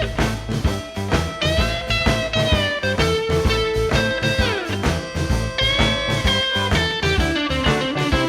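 Delta blues band music with no singing: a lead guitar plays held notes, bending them up and down, over bass and a steady beat.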